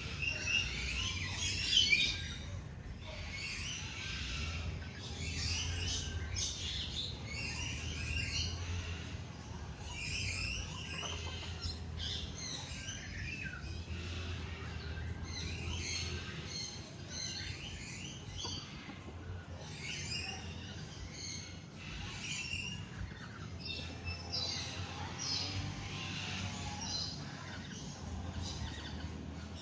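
Several birds chirping and singing, with many short, quick calls overlapping throughout, over a low steady rumble.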